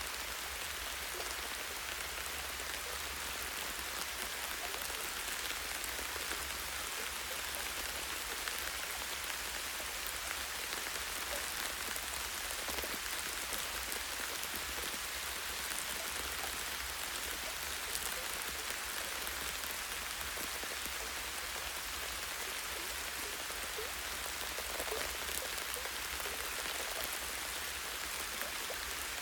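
Light, steady rain falling in a forest, drops pattering on leaves and a tree branch, with faint individual drip ticks scattered through.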